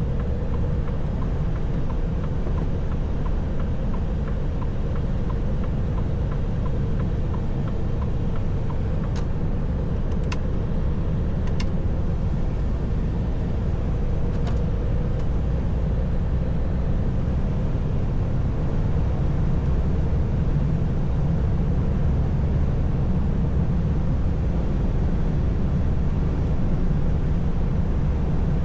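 Inside a truck cab on a snowy winter road: a steady low rumble of the engine and tyres, with a faint hum in the first half and a few light clicks.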